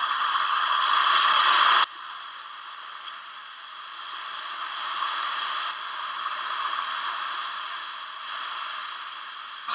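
Steady rushing hiss on old camcorder home-video audio, louder for about the first two seconds, then cutting abruptly to a quieter hiss.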